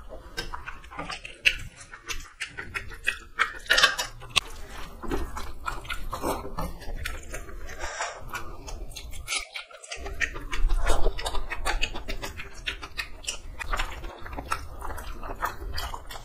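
People chewing and biting mouthfuls of rice, boiled egg and chicken curry close to the microphone: a dense, irregular run of short wet clicks and smacks, louder for a moment about eleven seconds in.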